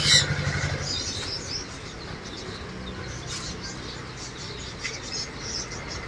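Small cage birds chirping in short, scattered calls over a steady low hum.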